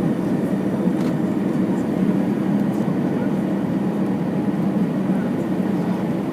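Steady low rumble inside an Airbus A320 passenger cabin, from the engines and the airframe moving, with a faint knock about a second in.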